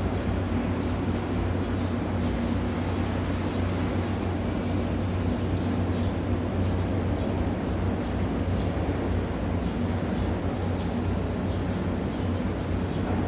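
Small birds giving many short, high chirps over a steady low rumble of urban background noise.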